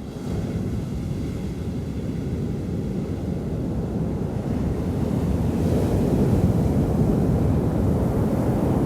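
Ocean surf at high tide: a steady low rumble of waves that swells louder and brighter about halfway through as a wave breaks and rushes in.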